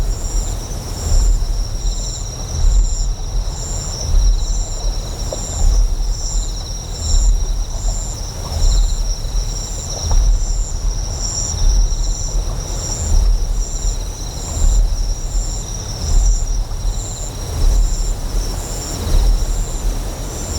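Deep generator hum swelling and easing about once a second, under a constant high chirping of insects in a quick steady pulse and a soft wash of flowing water.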